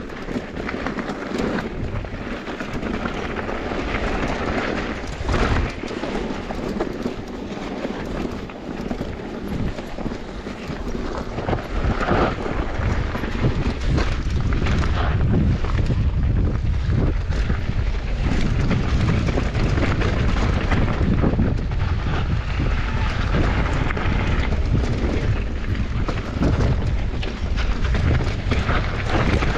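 Mountain bike riding down a trail: wind buffeting the microphone, tyres rolling over dirt and the bike rattling. The deep rumble grows louder about twelve seconds in.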